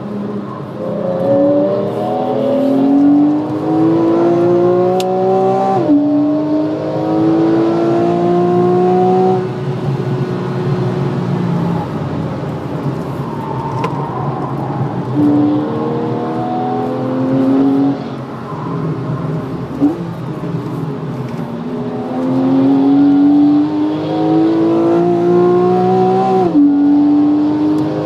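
A Porsche 991 Carrera 3.4's flat-six engine is accelerating hard, heard from inside the cabin. Its pitch climbs steadily through the revs and drops sharply at upshifts, about six seconds in and again near the end. In the middle it falls back off the throttle for a while before pulling up through the revs once more.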